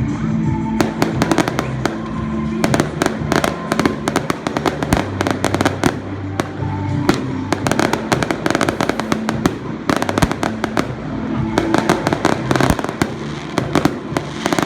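Fireworks going off in a dense, continuous barrage of rapid cracks and pops, many a second, with music playing underneath.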